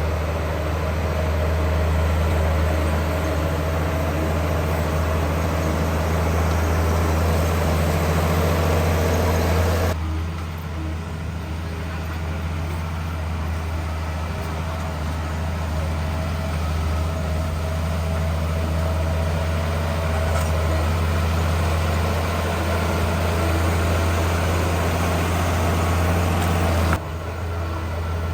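Heavy construction-machine diesel engine running steadily at low revs, with abrupt shifts in level about ten seconds in and again near the end.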